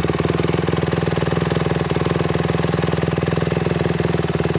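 A 150cc dirt bike engine idling steadily, with an even, rapid pulse that holds one pitch.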